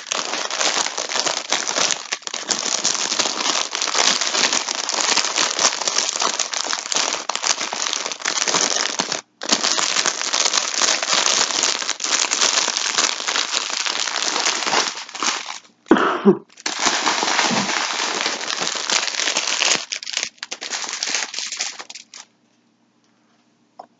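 Plastic yarn packaging crinkling loudly as it is handled and opened, with a few short pauses, stopping shortly before the end.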